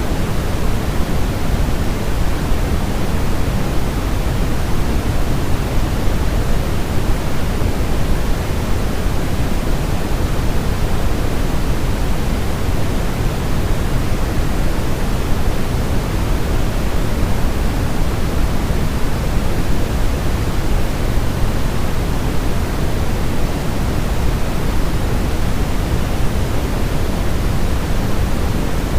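Steady baby-sleep noise (sold as white noise) with a deep, rushing character, heaviest in the low end and unchanging throughout.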